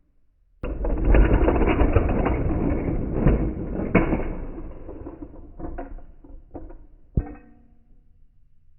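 Slowed-down sound of small diecast toy cars crashing: a sudden dense, deep clatter that starts about half a second in and fades over several seconds, with one sharp knock near the end.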